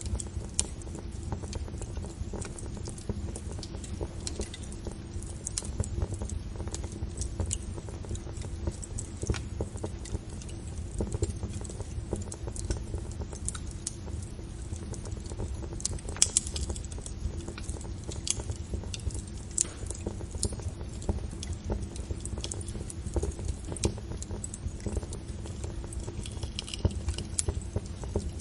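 Wood fire crackling: a steady low rumble of flames under dense, irregular pops and snaps, with a louder pop about halfway through.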